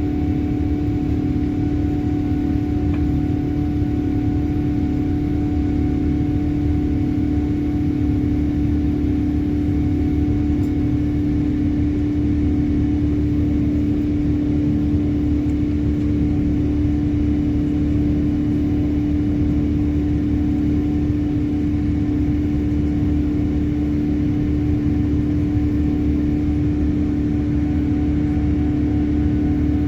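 Steady engine drone heard inside the cabin of a Boeing 787 airliner, with a constant low hum running through it.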